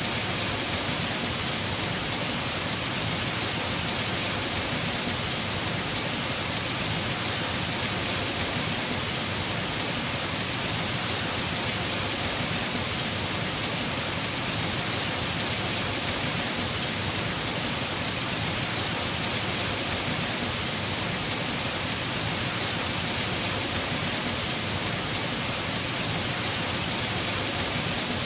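Heavy rain falling steadily on a house roof: a dense, even hiss of drops with no breaks or single impacts.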